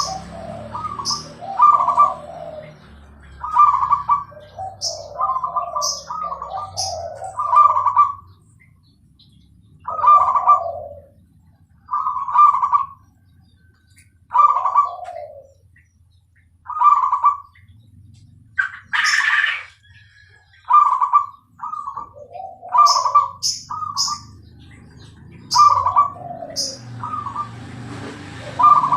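Zebra dove (perkutut) cooing: a long series of short, clear coo phrases repeated every second or two, with a few pauses between runs.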